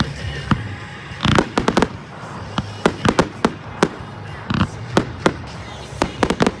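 Fireworks going off: a rapid, irregular run of sharp aerial shell bangs, some close together in pairs, about a dozen in a few seconds.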